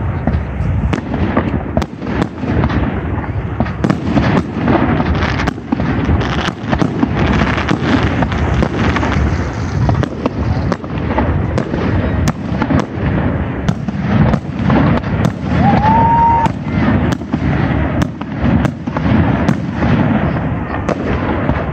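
Fireworks display: aerial shells bursting in a rapid, irregular run of bangs, over the continuous voices of a large crowd. A short rising whistle sounds about three-quarters of the way through.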